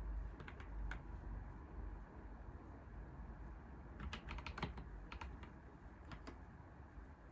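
Computer keyboard being typed on in short, sparse runs of keystrokes: a few clicks near the start, a quick flurry about four seconds in, then a couple of single keys.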